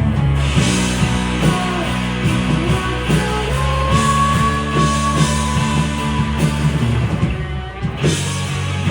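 Live rock band playing an instrumental passage, with electric guitar over bass and drums; a held guitar note rings out in the middle and the band drops briefly before crashing back in near the end.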